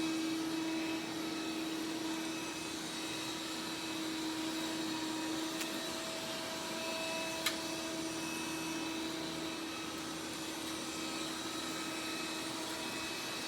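A small motor running with a steady whirring hum throughout, and a single sharp click about seven and a half seconds in.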